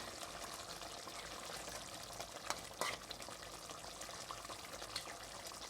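Chicken in tomato sauce bubbling in the pot, a steady soft hiss, with a few light clicks about halfway through and again near the end.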